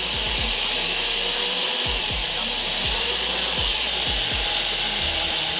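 Small power drill running steadily as its bit bores into a glued-in plastic control knob of a washing machine.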